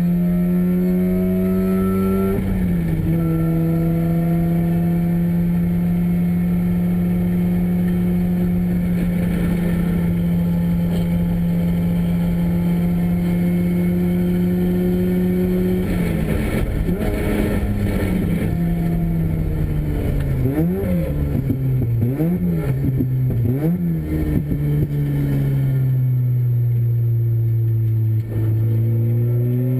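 Mazda Renesis two-rotor rotary engine in an RX-7 race car, running hard on track at high, steady revs. The note drops once early on at a gearshift, then falls while braking with three quick throttle blips for downshifts, and climbs again near the end as the car accelerates.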